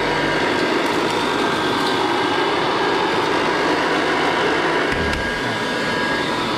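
Kirby Classic III upright vacuum cleaner running steadily at full speed while being pushed over the floor, its motor giving a steady whine over the rush of air, with a couple of low bumps about five seconds in.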